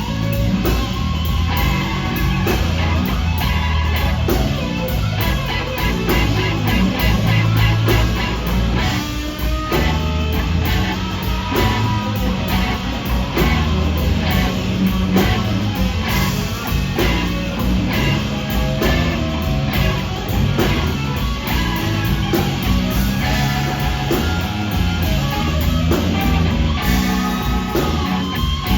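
Live electric blues band: an electric guitar playing lead lines with bent notes over bass and a drum kit, in a slow blues.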